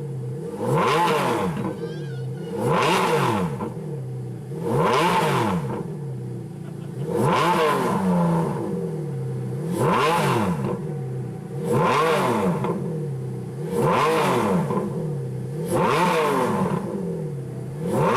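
Ferrari Enzo's V12 engine idling and being blipped, its pitch rising and falling quickly in short revs about every two seconds through the exhaust.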